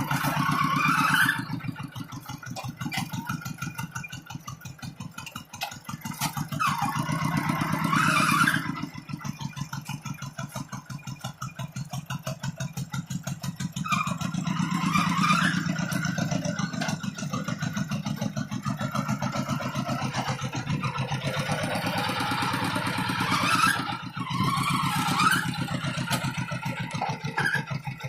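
Tractor engine running steadily with an even chugging beat as it pulls a moldboard plow, its sound swelling briefly about four times as the load or throttle changes.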